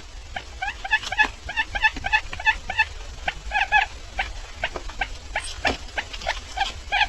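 Barred buttonquail calling: a quick series of short, clipped notes, about three or four a second, with a few sharp clicks among them.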